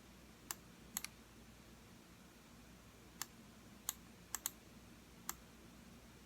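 Computer mouse buttons clicking: about eight short, sharp clicks at irregular spacing, two of them in quick double-click pairs, over a faint steady room hum.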